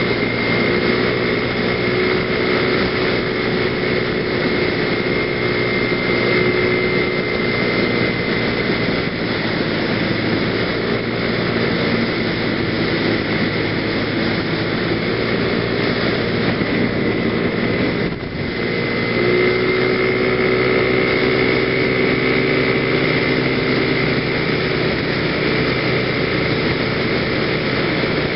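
PGO BuBu 125cc scooter engine running steadily at cruising speed, with wind rush on the helmet microphone. About two-thirds of the way through it briefly eases off, then picks up again.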